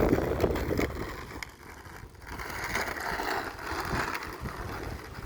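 Gusty wind buffeting a phone's microphone as an irregular low rumble, easing briefly about a second and a half in, then picking up with a rushing hiss.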